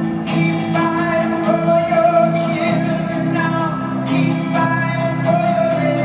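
Live concert music from a band on stage: long held notes over a steady beat.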